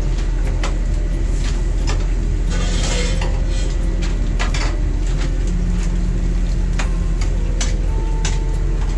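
Kitchen utensils and pans clinking and knocking many times over a steady low rumble, with a brief hiss about three seconds in.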